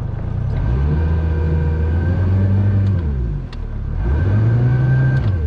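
Boat's outboard motor throttled up twice, each time for about two to three seconds, pitch rising then falling back, as it strains to push the boat off a stump it is stuck on.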